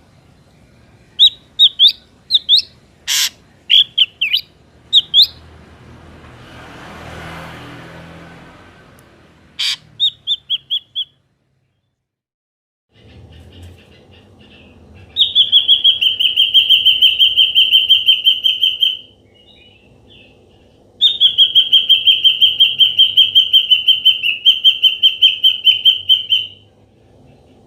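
Ashy drongo calling: a handful of short whistled chirps with a few sharp clicks. After a pause, two long, fast, evenly pulsed trills of about four and six seconds.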